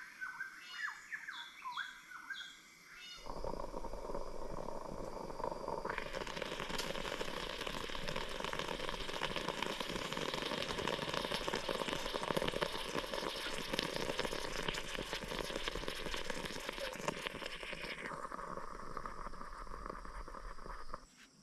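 A few bird chirps, then after about three seconds a sudden cut to steady rain falling, with a fine crackle of drops, thicker from about six seconds in and stopping abruptly just before the end.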